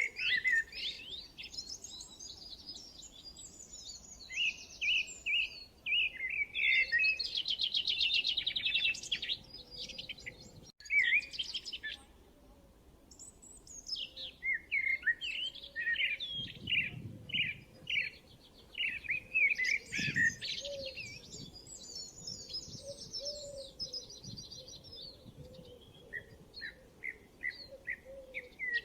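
Songbirds singing: many quick chirps, slurred whistles and rapid trills overlapping, with a sudden break about eleven seconds in and a short lull after it before the song picks up again.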